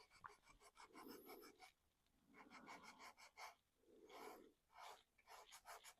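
Faint sandpaper rubbing over a painted 3D-printed plastic car body in several short runs of quick strokes with brief pauses between them, wearing the paint down for a weathered look.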